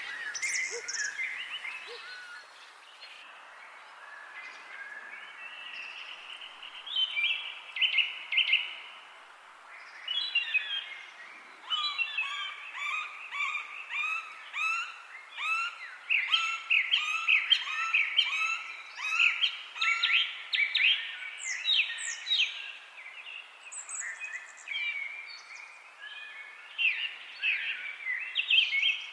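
Several songbirds chirping and singing over a faint steady hiss. The calls are sparse for the first few seconds, then grow busy with rapid repeated notes through the middle.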